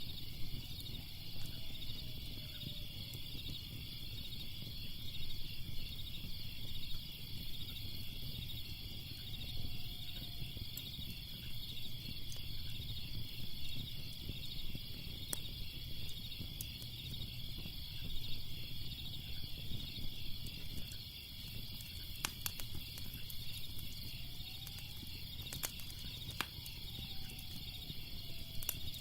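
A steady chorus of crickets chirping in a fast pulsing trill over a low rumble. A fire's sharp crackles and pops come here and there, more often in the last third.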